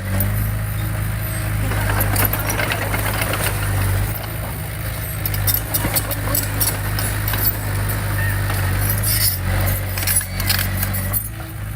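Heavy diesel earthmoving machinery running steadily, with scattered metallic clanks and rattles over the engine note.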